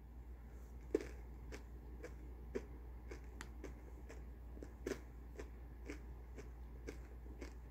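A person chewing hazelnut spread M&Ms, the candy shells crunching in irregular crisp clicks, about two to three a second.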